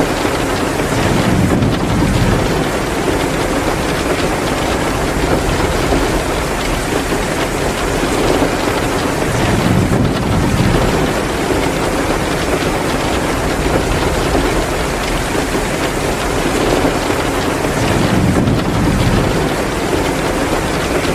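Heavy downpour, a dense steady hiss of rain, mixed with the crackle of a fireplace. A low rumble swells up three times, about every eight to nine seconds.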